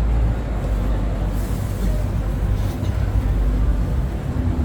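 Steady low rumble of exhibition-hall background noise, with a brief hiss about a second and a half in.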